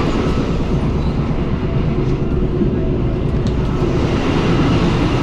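Passenger train running at speed, heard from on board: a steady loud rumble of wheels on the rails, with a faint steady hum.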